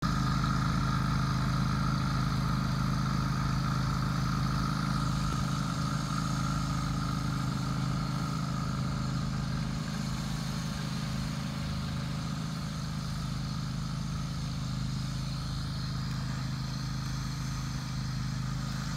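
John Deere X324 lawn tractor running steadily with its 44-inch snow blower; a higher whine over the engine fades out about five seconds in.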